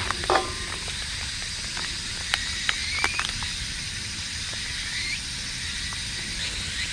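Wood campfire crackling: scattered sharp pops over a steady hiss, with a short rising squeal about three seconds in.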